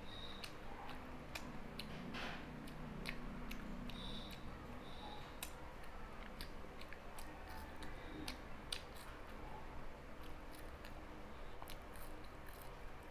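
Close-miked chewing and biting of jalebi, with many sharp, crisp clicks scattered irregularly through the eating.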